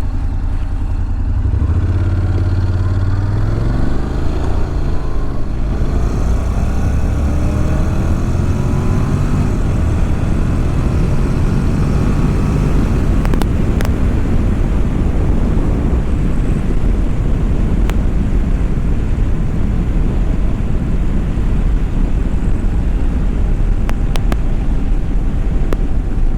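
Honda NC750XD motorcycle's parallel-twin engine accelerating hard from a stop, its pitch rising and dropping back several times as it shifts up through the gears, then running steadily at road speed under heavy wind noise.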